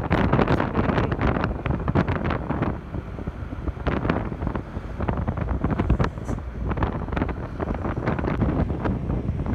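Wind buffeting the microphone over the low rumble of a moving truck, with many short crackles.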